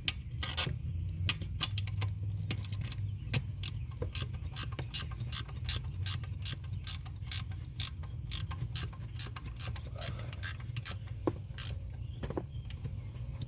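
Ratchet wrench clicking as nuts are tightened down on studs, in quick irregular strokes at first, then a steady rhythm of about two clicks a second.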